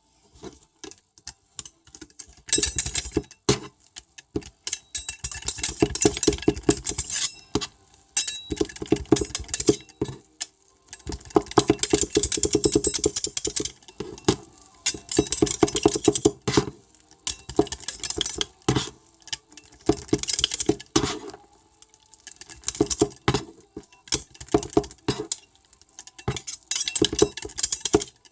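Metal spatulas rapidly chopping, tapping and scraping on a steel plate, as when cake and cream are chopped into rolled ice cream, in quick runs of many strikes broken by short pauses.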